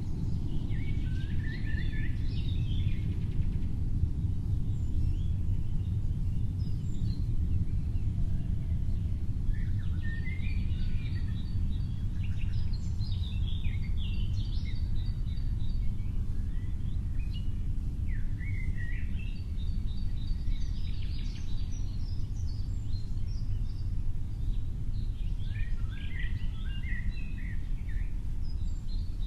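A songbird singing in four bursts of quick, varied chirping notes a few seconds apart, over a steady low rumble of background noise.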